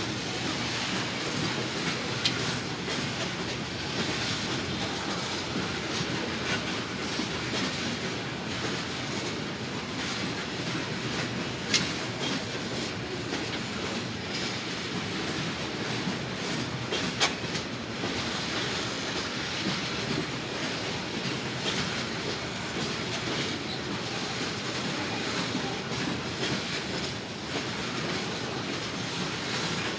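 Train cars rolling past with a steady rumble, the wheels clacking over rail joints, with a few sharp clicks standing out.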